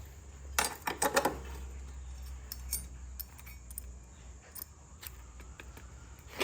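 Metal clinks and light rattles over a low steady hum: a few sharp clinks about a second in, then scattered lighter ticks.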